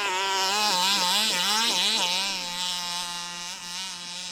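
HPI Baja 5B's 29cc two-stroke engine revving up and down rapidly under load as the buggy churns through snow and mud, then settling to a steadier, slightly quieter drone about two and a half seconds in.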